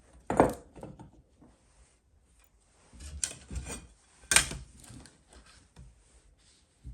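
Hard objects knocked and handled at a work surface: a sharp knock about half a second in and another about four and a half seconds in, with smaller taps and scrapes between.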